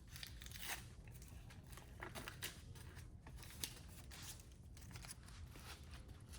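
Faint, intermittent crinkling and rustling of a sheet of sound-deadening material being handled and pressed into a van door panel.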